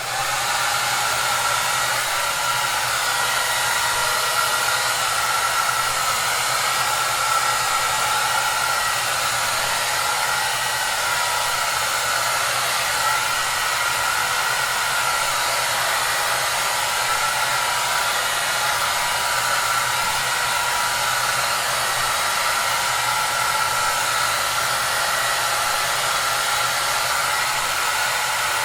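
Hair dryer running steadily: an even airy hiss with a faint whine in it and a low hum underneath, unchanging throughout.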